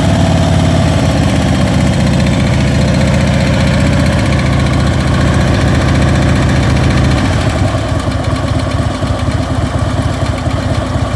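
Harley-Davidson Ultra Limited's V-twin engine idling, with the ticking noise that the owner is trying to track down. It runs a little quieter from about seven and a half seconds in.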